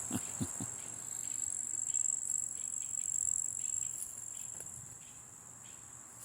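Insects trilling steadily at one high pitch, with a few soft low knocks in the first second.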